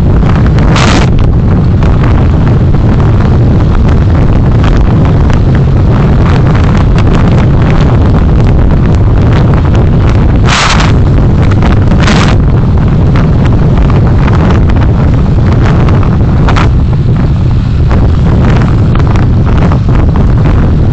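Road and engine noise of a car driving, picked up by a dashcam microphone as a loud, constant low rumble with crackling, broken by a few brief hissy bursts.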